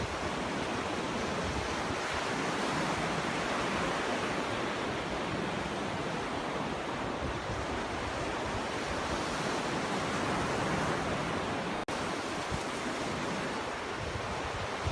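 Ocean surf washing onto a beach: a steady rush of breaking waves that swells and eases slightly, with a split-second gap in the sound about three-quarters of the way through.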